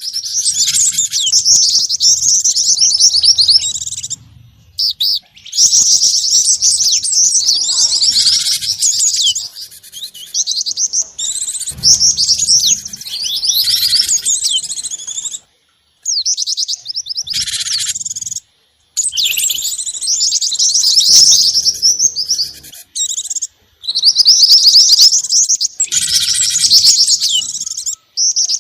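Rapid high-pitched chirps and twitters from a bird-lure recording that mixes the calls of the gelatik batu (cinereous tit), the jingjing batu (black-winged flycatcher-shrike) and the mantenan. The calling comes in dense bursts that cut off suddenly into brief gaps several times.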